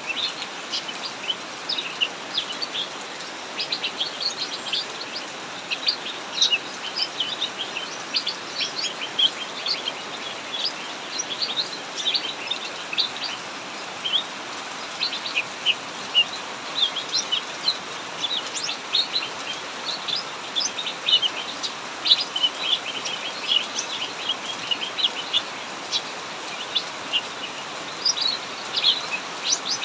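Cucak mini birds singing non-stop, a rapid run of short high chirps, over the steady hiss of heavy rain.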